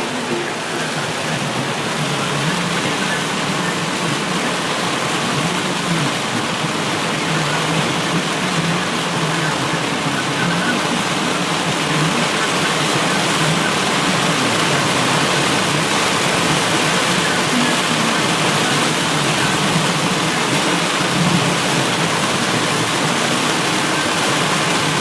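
Heavy rain and running water: a steady rushing noise that grows a little louder as it goes on.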